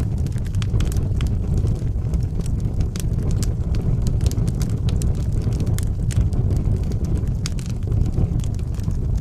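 Wood fire burning in a fireplace: a steady low roar of the flames with frequent irregular sharp crackles and pops.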